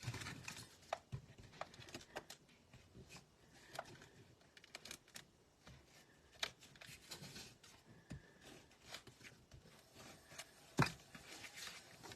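Cardstock and paper being handled and pressed together: light rustling and scattered small taps and clicks, with one sharper knock near the end.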